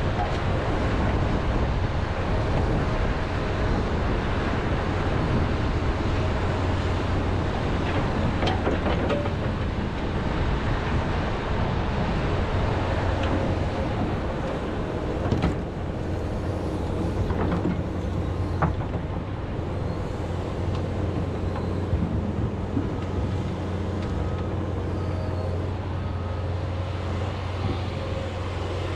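John Deere 210G excavator's diesel engine running steadily under load, with a few sharp knocks in the middle as the bucket breaks into frozen peat moss.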